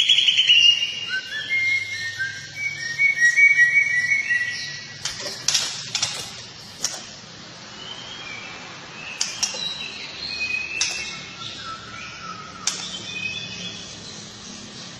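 Songbirds singing in quick varied phrases: a fast trill at the start, then clear whistled notes, then sharp clicking chips mixed with short whistles. This is masteran tutor song, recorded birdsong played to caged songbirds to teach them song.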